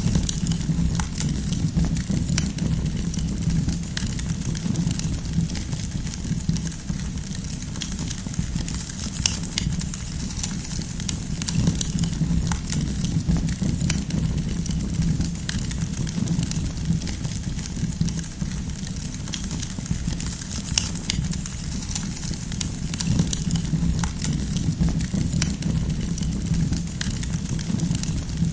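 Wood campfire crackling, with frequent sharp irregular pops and snaps over a steady low rumble.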